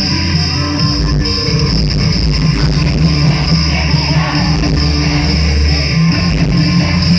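Rock band playing live at concert volume, with electric guitar to the fore over bass and drums.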